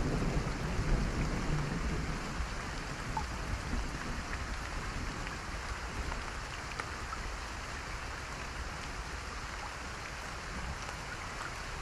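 Steady rain falling, an even hiss with scattered drop ticks. A low rumble of thunder dies away over the first couple of seconds.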